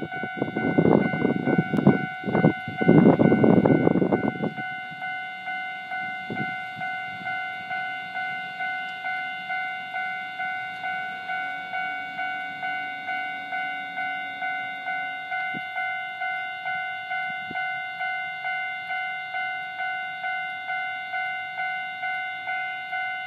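Japanese railway level-crossing warning bell ringing: an electronic two-tone 'kan-kan' chime repeating evenly about twice a second, the signal that a train is approaching. For the first four and a half seconds a loud rushing noise lies over it, then stops.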